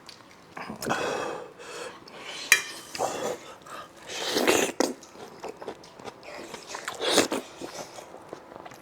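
Close-up eating sounds: slurping, sucking and chewing on spicy braised beef hoof, in several short wet bursts, with a sharp click about two and a half seconds in.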